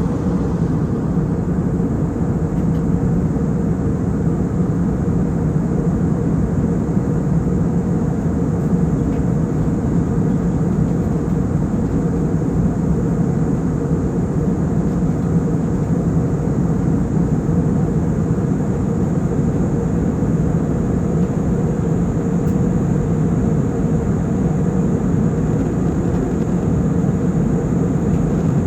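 Airliner cabin noise in flight: a steady drone of engines and rushing air, with a constant low hum and no change in level.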